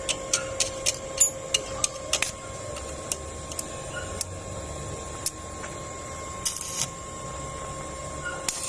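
Metalwork at a welding job: a run of sharp ticks and taps, several a second, for about two seconds, then scattered single ones, with two short bursts of crackling hiss near the end, over a steady electrical hum.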